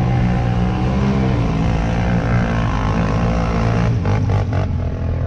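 A vehicle engine runs steadily under load, its pitch shifting a little. A few sharp knocks come in quick succession about four seconds in.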